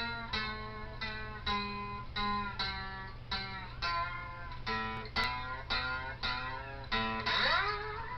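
Guitar music: single plucked notes, about two a second, with notes bending in pitch near the end.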